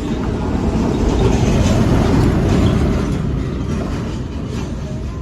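Tractor engine running with a steady low rumble that swells for a couple of seconds, then eases slightly.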